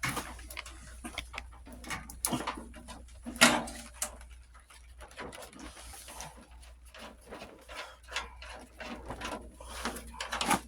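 Scattered clinks, taps and knocks of hand tools and metal parts while unbolting pieces from an old lawn tractor, with a sharper knock about three and a half seconds in.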